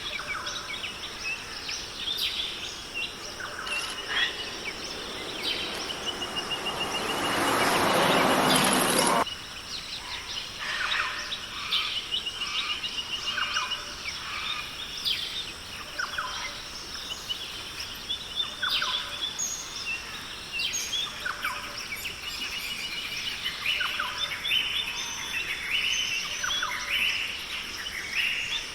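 Tropical forest ambience: many birds calling in short repeated phrases over a steady high insect hum. A loud rushing noise swells up a few seconds in and cuts off abruptly.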